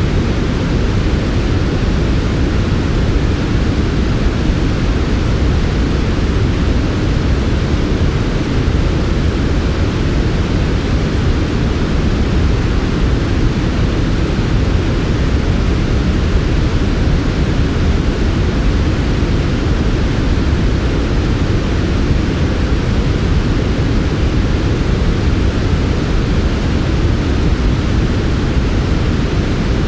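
Steady synthetic noise used as a sleep sound: an even, unchanging hiss weighted toward the low end, so it sounds deep and soft rather than bright.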